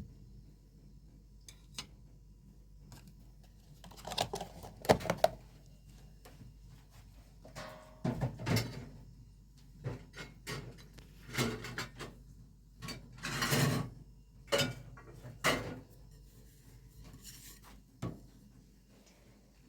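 Irregular knocks, clatters and rustles of objects being handled, with the sharpest knocks about five seconds in and a longer rustle past the middle.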